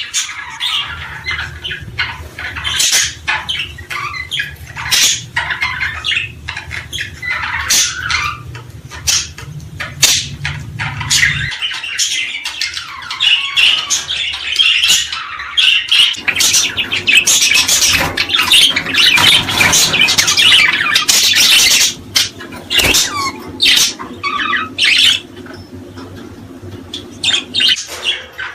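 A crowd of small cage birds calling at once: busy chirping and squawking. A low hum underneath stops about eleven seconds in.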